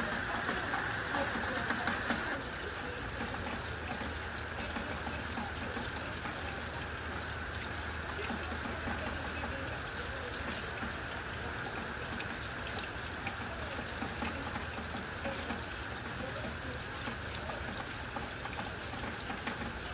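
Steady rain falling, an even hiss that drops slightly in level about two seconds in.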